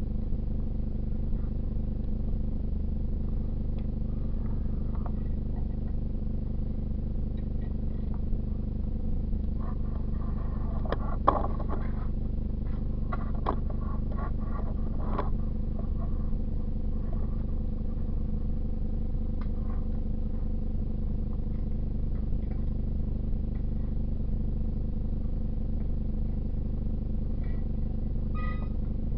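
A steady low mechanical hum, with scattered clicks and a short run of clatter about eleven to fifteen seconds in, from hand tools and metal parts being handled while the water heater is taken apart.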